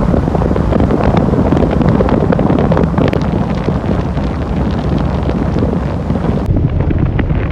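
Loud wind buffeting the phone's microphone in a moving car, a dense rumble with constant crackling, over the car's road noise.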